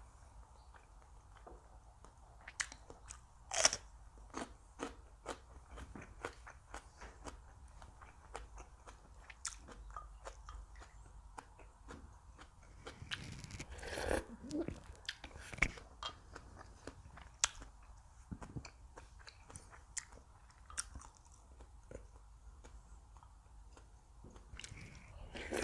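Close-miked chewing and biting of crunchy food: many small crisp crunches, one sharper bite a few seconds in and a longer, louder stretch about halfway through.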